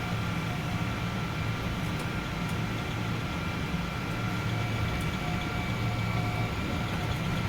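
Steady cabin noise inside a Boeing 777-200 airliner: an even low hum with a faint high whine held on one pitch.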